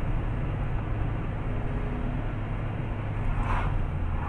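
Steady low rumble of a car's engine and road noise heard from inside the cabin, with a brief hiss about three and a half seconds in.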